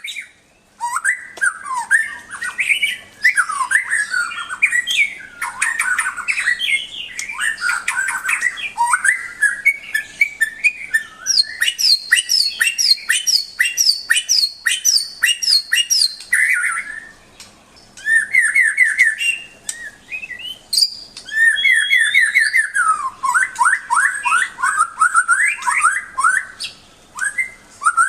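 White-rumped shama (murai batu) singing a long, varied song of rich whistled phrases and rapid trills. Around the middle comes a run of a dozen repeated high notes, and there are brief pauses between phrases.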